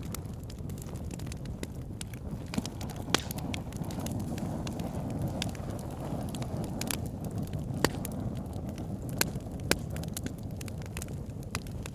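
Wood fire burning in a fireplace: a steady low rush of flame with irregular sharp crackles and pops, a few louder snaps standing out.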